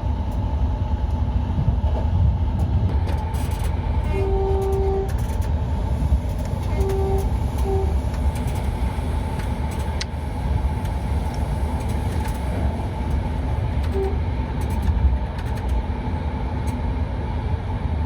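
Train horn sounding over the steady low rumble of the moving train: one blast of under a second about four seconds in, two short toots a few seconds later, and one more short toot near the end.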